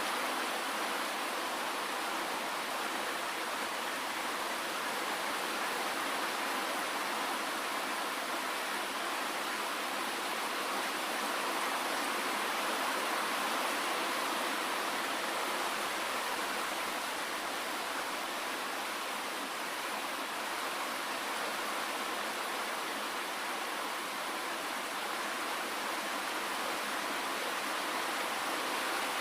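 Steady rain, an even hiss with no low rumble and no single drops standing out.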